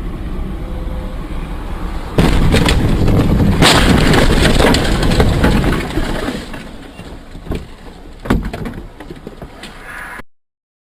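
Road noise from a car, then about two seconds in a sudden loud crash noise with a sharp bang a second later, typical of a collision. The noise fades over several seconds, with a couple of knocks, before cutting off abruptly.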